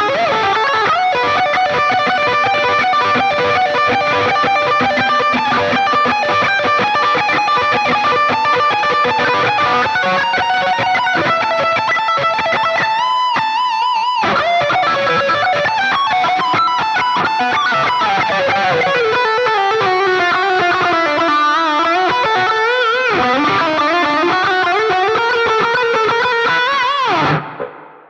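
Distorted electric guitar playing a fast heavy-metal lead solo. Rapid runs of notes, a high note held with wide vibrato about halfway through, and swooping string bends later on. It ends on a note that dives down in pitch and then cuts off.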